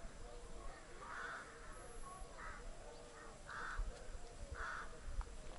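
Faint bird calls: about five short calls, roughly a second apart.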